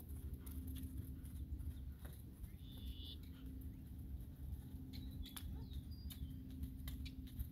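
Outdoor ambience: a steady low rumble with a few short bird chirps, one about three seconds in and several more around five to six seconds, and a few faint clicks.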